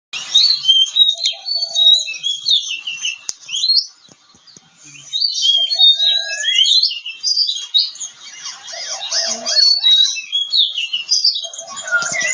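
Oriental magpie-robin (kacer) singing a rapid, varied song of whistles and chirps, breaking off for about a second a third of the way through, then starting again.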